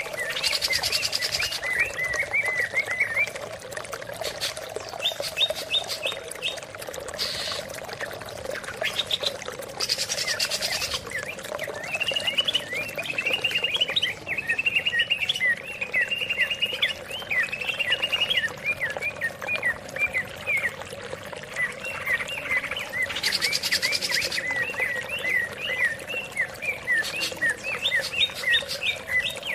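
Greater green leafbird (cucak ijo) singing in rapid runs of short, repeated chirping notes, with flowing water running steadily underneath.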